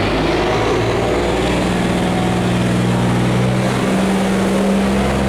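Boat's inboard engine running hard, its pitch stepping up about four seconds in, over the rush of water pouring through an open sluice gate.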